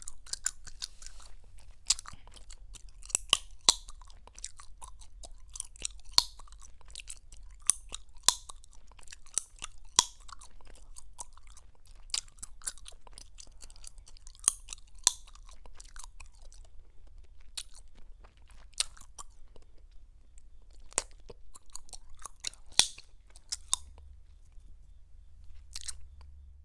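Close-miked chewing gum being chewed with wet smacking and irregular sharp pops and snaps. The pops thin out in the last third. A faint steady low hum sits underneath.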